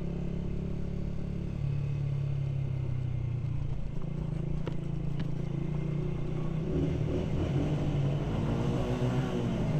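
Honda CG 125's single-cylinder four-stroke engine running steadily while riding, with road and wind noise. From about seven seconds in, a second engine note rises and falls as another vehicle goes by.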